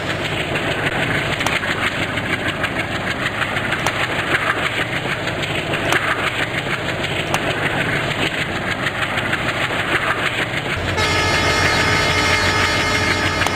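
A train running past on the rails: a steady rumble and rattle of the coaches, with faint clicks of wheels over rail joints. About eleven seconds in, a steady hum comes in over the noise.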